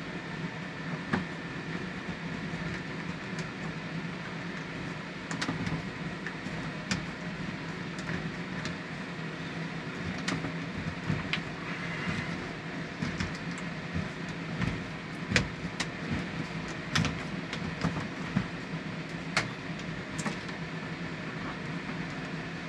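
Scattered sharp clicks and taps of hands handling tools and a shower fitting while caulking, over a steady machine hum.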